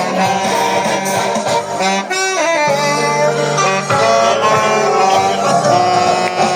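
Saxophone playing a melody over accompanying music, with a quick bending run about two seconds in.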